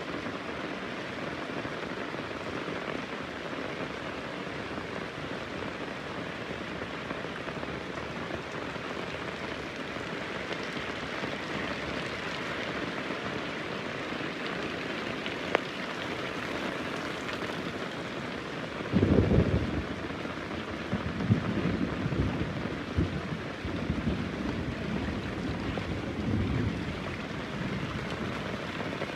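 Heavy rain falling steadily; about two-thirds of the way in, a roll of thunder starts with a loud crack and rumbles on in pulses for several seconds.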